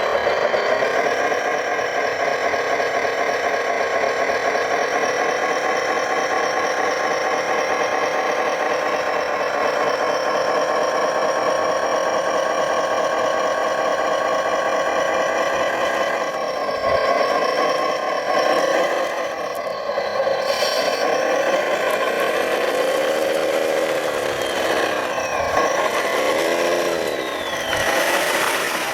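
Radio-controlled construction models running: a steady mechanical whine with rattling, its pitch dipping and rising repeatedly in the last third as the machines change speed.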